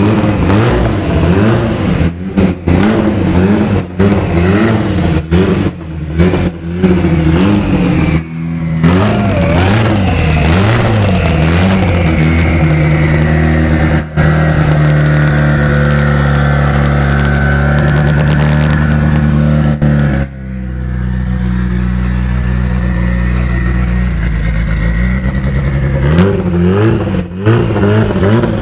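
A car engine running and being revved up and down repeatedly, then held at a steady speed, with an abrupt break about twenty seconds in.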